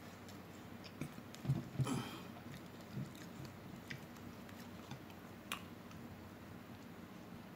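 Close-miked chewing of a sloppy joe sandwich: soft, wet mouth smacks and clicks, with a cluster of louder chews about one and a half to two seconds in and a single sharp click about five and a half seconds in.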